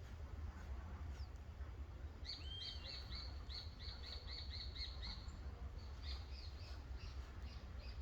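A bird singing a quick, even run of about a dozen short high chirps, starting about two seconds in and stopping about three seconds later, over a steady low rumble.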